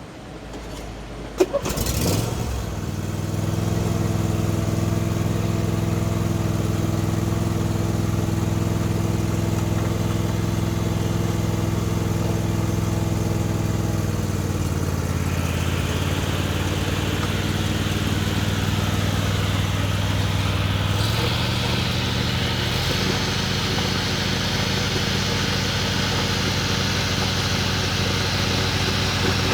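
John Deere D130 riding mower engine starting after a sharp click, catching about two seconds in and then running steadily. About halfway a higher rushing noise builds in, and the engine note steps up twice near the end.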